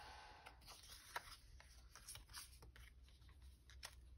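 Faint rustling and light ticks of paper and card being handled on a craft table, with one sharper click about a second in.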